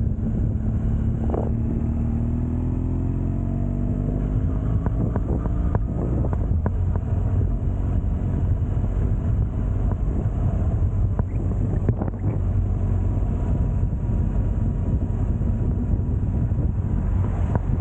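Motorcycle engine running under way with a steady low road rumble; the engine's pitch rises over the first few seconds as it accelerates.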